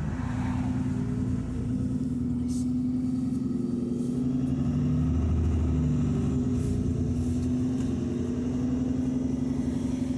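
Engine of an ADL Enviro 400 double-decker bus heard on board, running steadily under way with a low rumble, its note shifting a little now and then.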